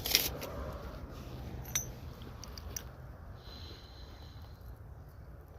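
A few sharp metallic clinks and knocks of tools being handled, the loudest at the start and one a little under two seconds in, then quieter handling noise over a low steady rumble.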